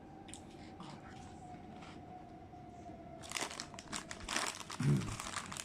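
Food packaging crinkling: a quiet start, then a dense run of crackles for the last two seconds or so, with a short vocal sound from the eater among them.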